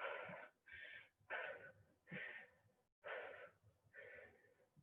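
Faint, rhythmic heavy breathing of a person exercising in a plank with alternating taps: short hard breaths, a little more than one a second.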